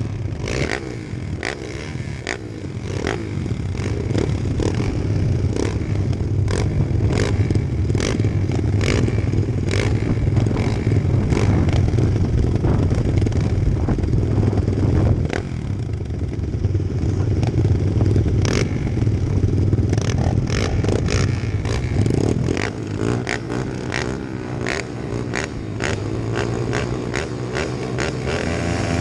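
Pit bike engines running, the engine note swelling and easing as they ride, with frequent sharp clattering knocks throughout.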